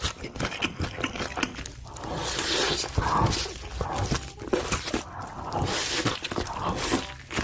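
Close-miked mukbang eating sounds: a person biting and chewing food, a quick run of small clicks and crunches with patches of louder noisy mouth sound.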